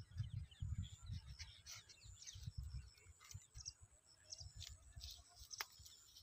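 Small birds chirping and calling in short, scattered notes, over a low gusty rumble of wind on the microphone. A single sharp click sounds a little before the end.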